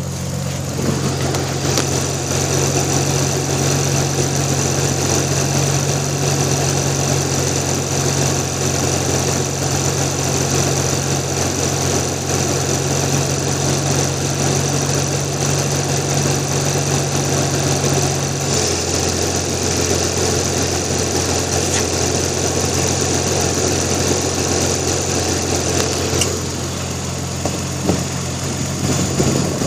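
Toyota Supra's engine idling steadily, run with the cooling system open so that trapped air can be burped out of it after overheating. The idle note shifts lower about two-thirds of the way through.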